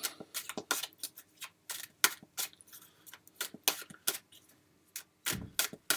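Tarot cards being shuffled by hand: an irregular run of sharp card clicks and snaps, a few each second.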